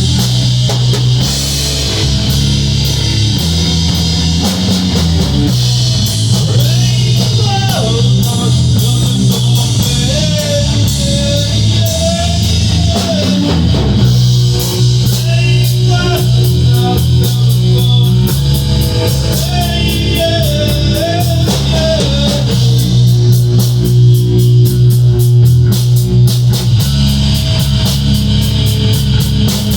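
Rock band playing a song on electric guitar, bass guitar and drum kit. A sung vocal line comes in about six seconds in and drops out about twenty-two seconds in, leaving the band playing on.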